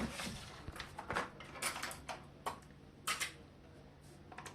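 Irregular light clicks and knocks from a laptop's plastic case and parts being handled during disassembly, about eight in all, some in quick pairs.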